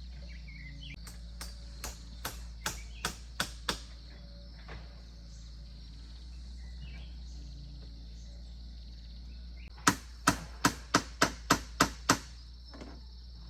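Two runs of about eight sharp striking blows each, roughly three a second; the first run grows louder and the second is louder still. A steady high insect buzz carries on underneath.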